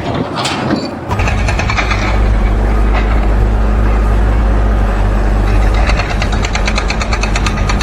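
A heavy engine, most likely construction machinery, running with a steady low rumble that comes in about a second in, with a fast rattling clatter over it, strongest near the end.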